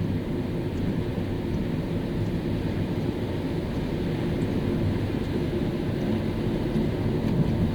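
Steady low rumble and hiss of a car driving, with road noise.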